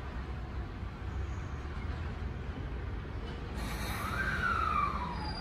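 Tokyo Metro 05 series electric train standing at the platform with a low, steady hum. About three and a half seconds in, a hiss and a whine falling in pitch come in as the train gets ready to depart.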